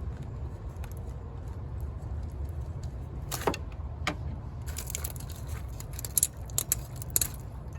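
Sharp metallic clicks and clinks of a ratchet wrench working a bolt to unfasten an engine ground wire: a couple of isolated clicks, then a quick irregular cluster in the second half, over a steady low hum.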